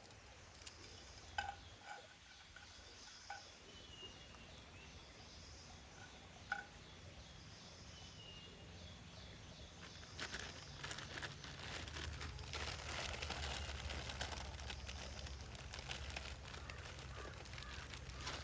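Outdoor forest ambience: a few sharp knocks and brief bird chirps over a faint steady hiss. About ten seconds in, a louder steady rushing noise with a low rumble swells up.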